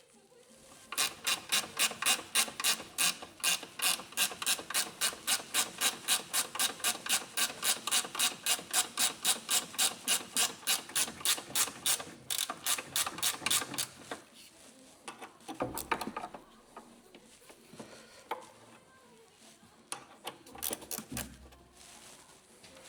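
Hand ratchet wrench clicking steadily, about four clicks a second, for some thirteen seconds, then stopping. A few scattered knocks of parts being handled follow.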